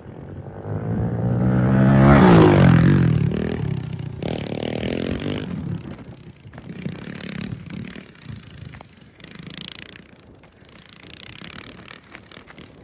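Pit bike engine revving as the bike rides past, loudest and dropping in pitch about two seconds in. It then fades away, with a few shorter bursts of throttle.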